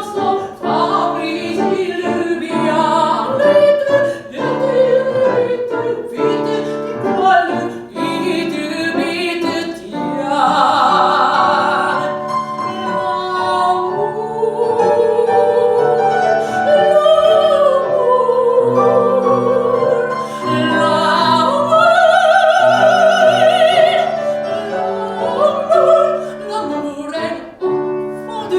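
Soprano singing an opera aria with wide vibrato, accompanied by piano.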